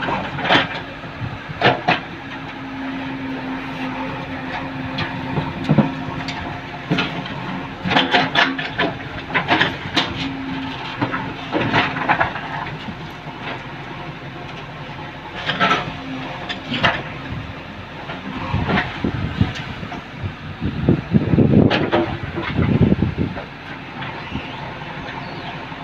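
Excavator digging: its diesel engine running steadily under repeated sharp clanks and scrapes of the bucket working through soil and rubble, with heavier low knocks near the end.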